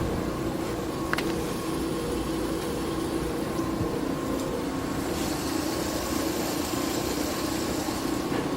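Asko stainless steel dishwasher running a wash cycle: a steady motor hum, with a single click about a second in and a higher hiss joining about halfway through.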